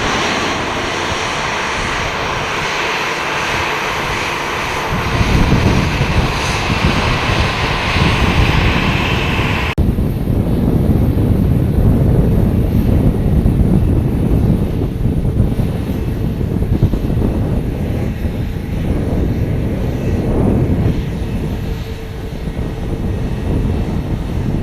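Jet airliner engines, loud and close. For the first part there is a hissing whine. About ten seconds in, the sound changes abruptly to a deeper rumble.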